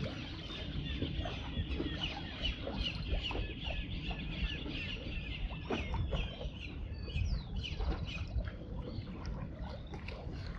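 Many birds chirping and chattering in quick overlapping calls, over a steady low rumble.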